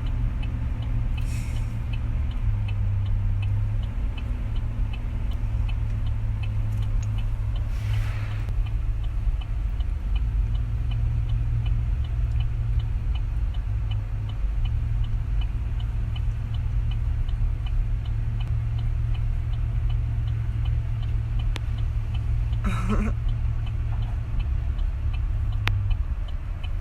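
Chevy pickup's engine running steadily under load while it tows a broken-down truck, heard as a constant low drone from inside the cab, with a light regular ticking over it.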